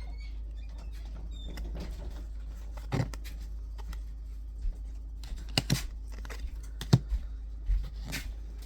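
Scattered knocks and clicks of handling, the sharpest about seven seconds in, over a steady low hum.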